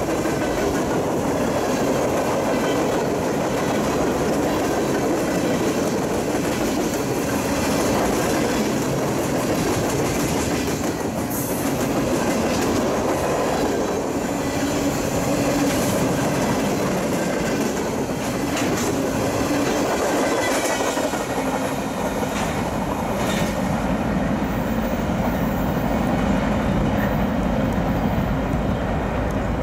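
Freight train gondola cars rolling past on the rails: a steady rumble and rattle of wheels with clickety-clack over the joints and a few sharp clanks. In the last few seconds the high rattle thins out as the cars move away.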